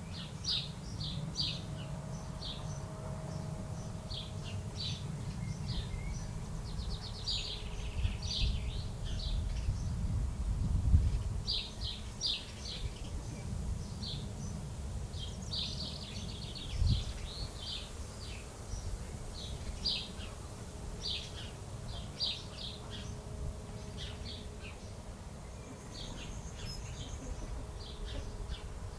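Small birds chirping, many short high chirps coming one after another, over a steady low rumble with a few dull thumps.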